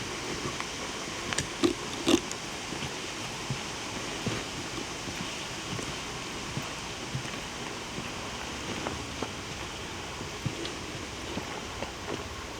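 Steady breeze hiss with scattered soft knocks and clicks from footsteps and a hand-held camera being carried along a trail. There are two sharper knocks about two seconds in.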